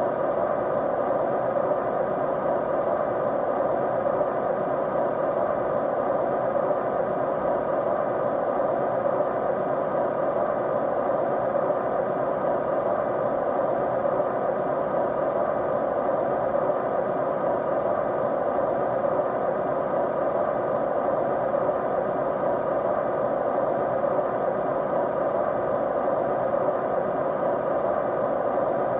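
Steady rushing noise of a running electric fan, played as white noise, with a few faint steady tones in it.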